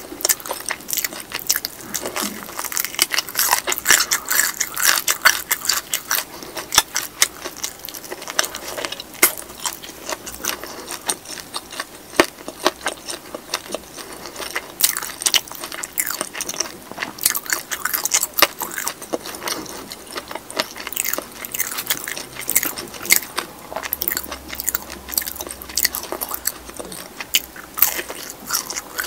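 Close-miked eating sounds: biting and chewing soy-sauce fried chicken drumstick meat, a continuous stream of sharp crunches and mouth clicks.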